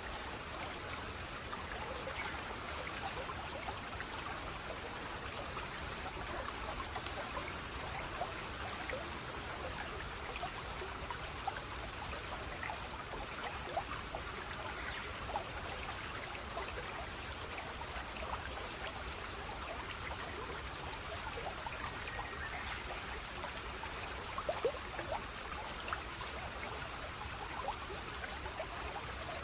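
Steady flowing water, with fine trickling and many small splashes throughout.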